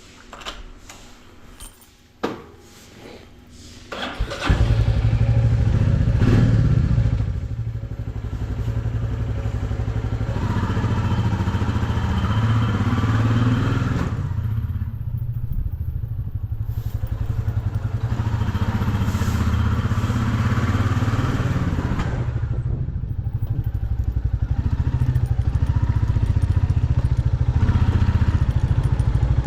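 A few clicks and knocks, then a motorcycle engine starts about four seconds in and keeps running, its speed and loudness rising and falling.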